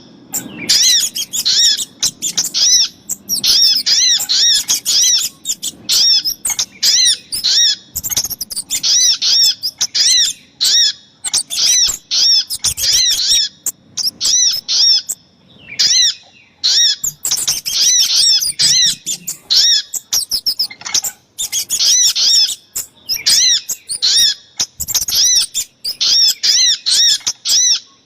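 Bird-lure recording combining little spiderhunter (sogok ontong) and kemade calls: fast runs of short, high, arched chirps, several a second, coming in bursts with brief breaks.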